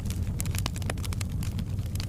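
Wood fire in a fireplace crackling: sharp, irregular pops over a steady low rumble of the flames.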